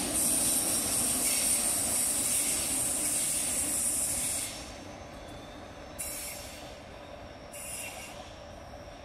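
NSB/Vy Stadler FLIRT electric multiple unit running past on a curve, its wheels giving a steady high squeal over the running noise. The squeal drops away sharply about four and a half seconds in, and two brief high hisses follow as the train draws off.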